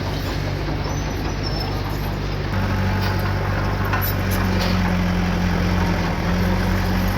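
Diesel engine of heavy earthmoving equipment running steadily, working harder and louder about two and a half seconds in, with a few faint metallic clanks.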